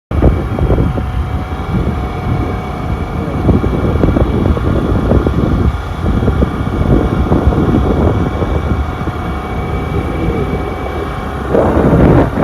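Wind buffeting the microphone of a moving road vehicle, with a steady faint hum of its running underneath; it gets a little louder near the end.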